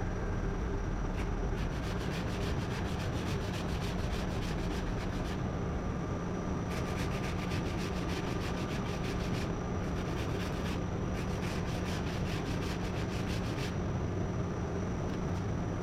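Power sander running steadily across body filler on a car panel, a continuous motor hum with a rapid scratchy rasp of abrasive on the filler.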